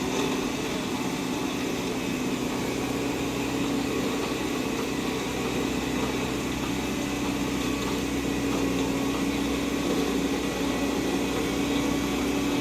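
Heavy vehicle's diesel engine running steadily, a constant hum that grows slightly louder near the end.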